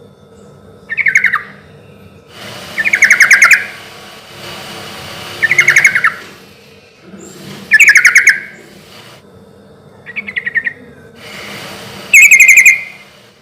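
Yellow-vented bulbul (trucukan) singing loudly: six short, bubbly, rapidly pulsed phrases, each under a second long, come about every two seconds at an unhurried pace.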